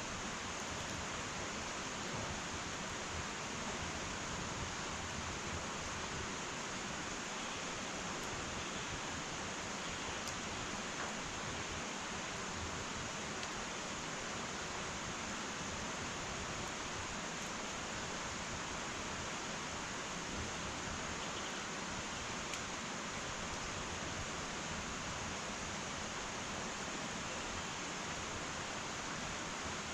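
Wood fire burning in an irori hearth: a steady hiss with a few faint, scattered crackles.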